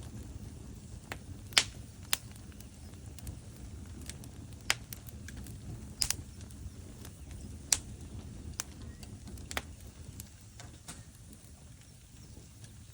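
Burning logs in a fireplace crackling: a low steady rush of flame with about half a dozen sharp wood pops, the loudest about a second and a half in, and fainter ticks between.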